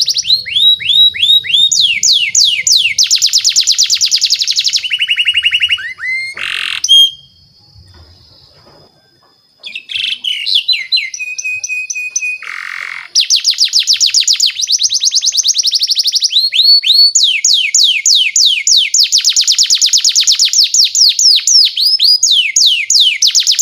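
Domestic canary singing: long tours of very fast, evenly repeated high trill notes that shift from one phrase to the next. The song breaks off for a couple of seconds about seven seconds in, then restarts and runs densely on. Two short harsher notes stand out, one just before the break and one soon after it.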